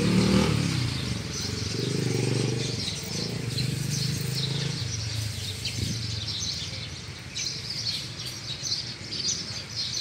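Small birds chirping repeatedly, busiest in the second half. Under them a low hum fades out about halfway through.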